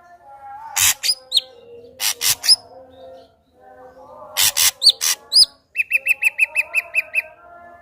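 Ashy drongo singing: harsh, rasping notes alternating with short upslurred whistles, then near the end a fast, even run of about ten clipped notes, roughly seven a second.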